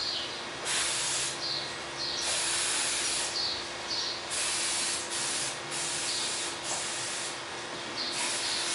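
Aerosol starter fluid spraying in several short spurts, a hiss that comes and goes.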